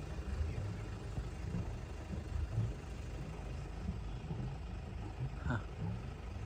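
Sailboat's inboard engine running slowly with a low, steady rumble while manoeuvring in to moor. A short squeak sounds once, near the end.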